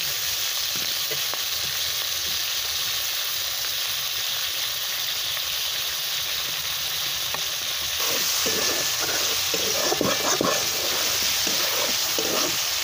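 Chopped tomatoes, onion and green chillies sizzling in hot mustard oil in a large metal wok while a metal spatula stirs them, scraping and knocking against the pan. The stirring gets louder and busier about eight seconds in.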